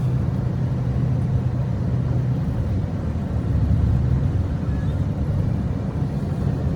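Car driving: steady low engine and road rumble, with a low hum that fades about two and a half seconds in.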